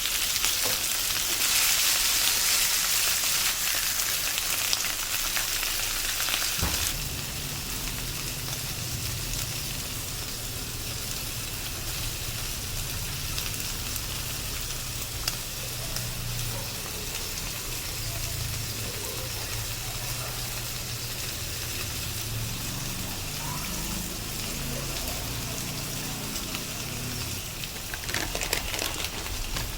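Chicken steak sizzling in a frying pan. About seven seconds in the sizzle drops quieter and a low steady hum comes in beneath it.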